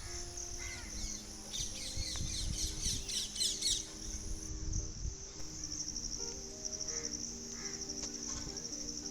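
Small birds chirping in a quick flurry in the first half, over a steady high insect trill like a cricket's. Soft background music with long held notes plays under them.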